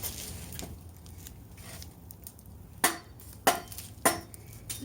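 Machete blade striking a piece of firewood three times, about half a second apart, in the second half. The machete is dull and is not splitting the wood.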